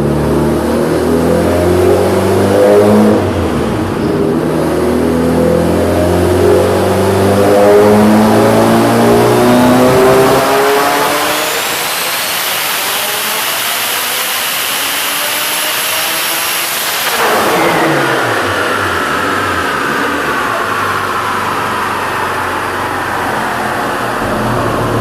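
Turbocharged Honda Civic with a Bullseye 66 mm triple-compressor turbo at 27 psi, run through a 4-inch oval side-exit exhaust, accelerating hard with the engine pitch climbing. A high turbo whistle rises over it, then cuts off sharply about seventeen seconds in as the throttle closes, and the revs fall.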